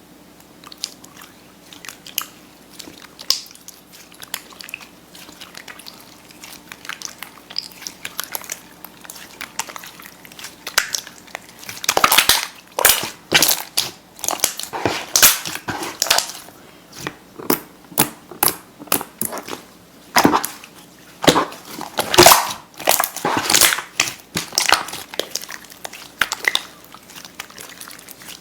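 Slime being squeezed and pressed by hand, making crackling, popping sounds: faint and scattered at first, then loud, dense clusters of pops from about halfway through.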